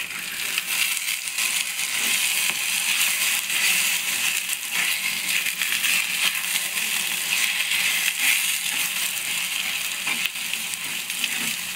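Eggs and chirraku leaves frying in hot oil in a metal pan, a steady sizzle, stirred with a metal spoon that scrapes and clicks against the pan.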